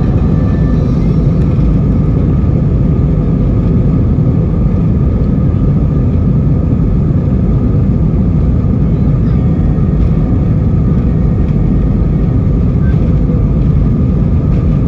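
Steady, loud low rumble inside the cabin of an Airbus A320-232, its IAE V2500 engines and the rushing air running at high thrust on departure.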